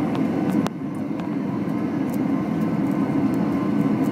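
Steady roar of an Airbus A320's engines and airflow heard inside the cabin during the landing. About a second in there is a single sharp knock, after which the roar drops slightly.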